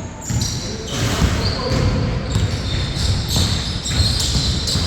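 Basketball game in play: a ball bouncing repeatedly on the court amid players' footwork, with frequent short high sneaker squeaks.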